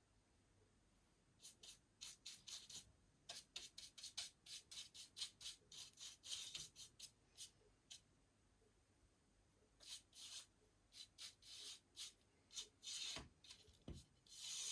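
Paintbrush strokes on wooden baseboards: a run of short, soft, scratchy strokes with a pause about halfway through, then a few longer strokes near the end.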